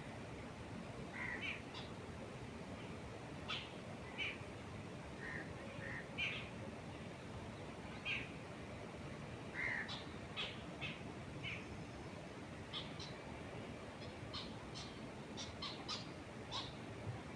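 Small birds chirping: short, scattered calls, sometimes several in quick succession, over a steady soft rush of wind through trees.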